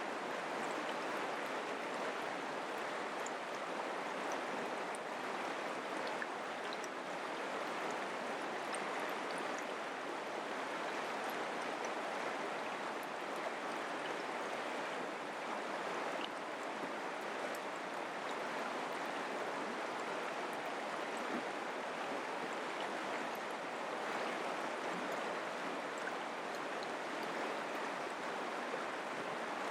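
Mountain creek running steadily: a constant rush of flowing water with scattered faint splashes.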